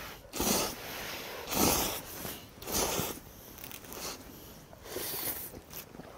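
Ramen noodles being slurped: four long slurps about a second apart, the last one weaker.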